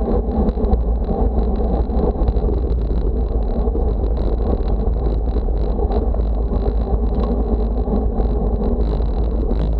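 Steady wind rumble on the microphone with road noise from riding at speed, continuous and without breaks.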